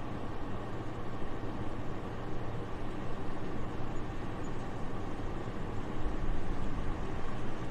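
Soft, steady wind noise, an even airy rumble and hiss with no gusts, swelling slightly about six seconds in.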